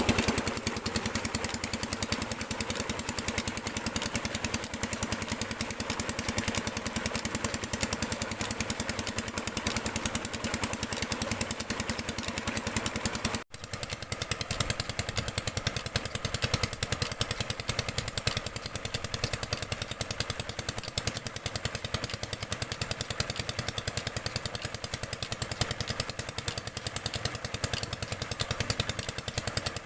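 Single-cylinder R180 diesel engine running steadily on a tube well pump, a fast even chugging of firing strokes. The sound breaks off for a split second about halfway through, then goes on as before.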